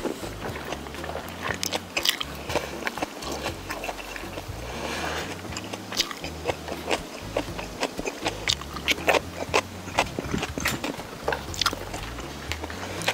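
Close-up eating sounds: a man biting and chewing pieces of sausage and vegetable stir-fry, with wet mouth sounds and many short, irregular clicks.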